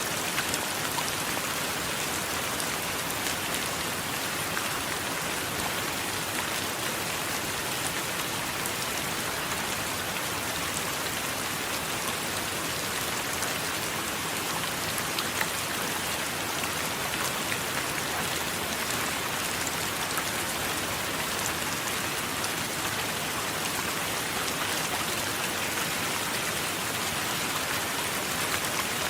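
Steady rain: an even hiss with many small, sharp drop ticks scattered through it, never rising or falling.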